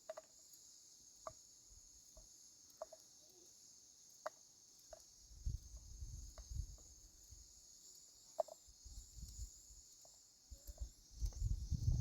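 Steady high-pitched insect chirring, crickets by the sound of it, with scattered small clicks and brief low rumbles about midway and again near the end.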